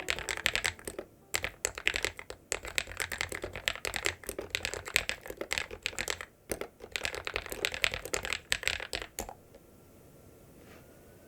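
Fast typing on a ZIYOULANG K68 mechanical keyboard fitted with lubed KTT Peach Lemon linear switches and Poron and Thinsulate foam dampening: rapid keystrokes in bursts with short pauses, stopping about nine seconds in.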